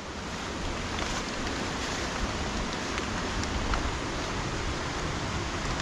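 Heavy rain falling in woodland: a steady, even hiss.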